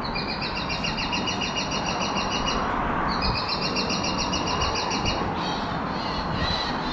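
A small songbird trilling: two long trills of fast, evenly repeated high notes, each about two seconds, over a steady rushing noise.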